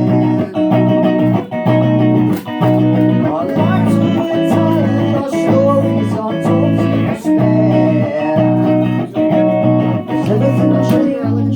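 Electric guitar playing strummed chords in a steady pattern, the chord changing about once a second.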